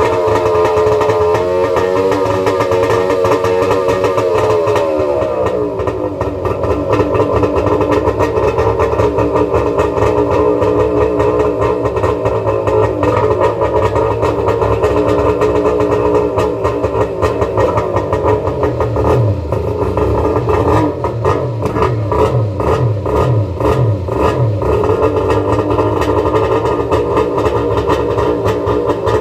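Yamaha jet ski's two-stroke engine running. Its pitch drops about five seconds in as the revs come down, then it runs steadily, with some uneven revving past the halfway mark.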